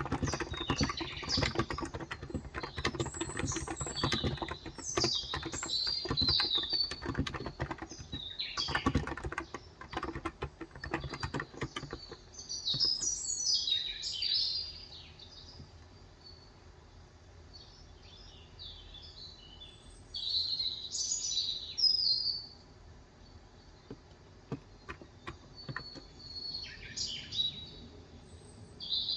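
Fast typing on a Cox Endeavour electrostatic-capacitive (35 g) tenkeyless keyboard, keystrokes clattering steadily, then stopping about twelve seconds in. Birds chirp outside over the typing and on through the quieter second half, in short bursts of high calls.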